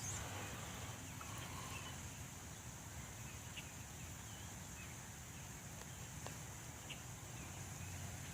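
Faint outdoor ambience: a steady low hiss with a few faint, short bird chirps scattered through it.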